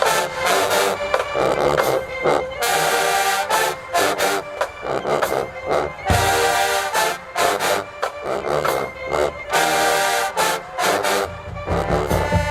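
HBCU marching band playing loudly, its brass section in short stop-start phrases with drums underneath.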